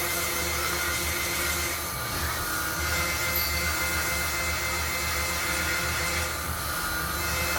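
CNC machine chamfering holes in an aluminium part: a steady machine whine with several fixed tones over a hiss, holding level throughout.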